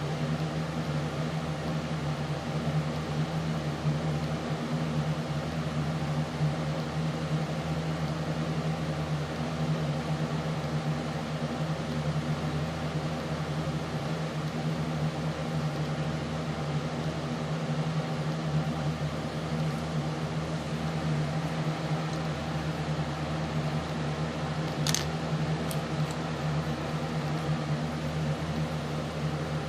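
A steady low hum with an even hiss over it, like a fan or other small machine running, and one sharp click about 25 seconds in.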